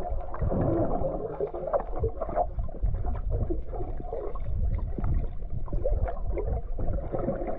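Water sloshing and gurgling right at the camera, muffled as if heard through a waterproof action-camera housing in a swimming hole, with many small knocks and bubbly blips over a low rumble.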